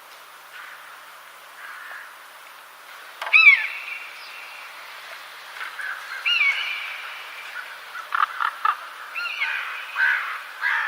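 A bird calling: three loud, high-pitched calls that bend in pitch, about three seconds apart, with a quick run of short, sharp notes between the second and third.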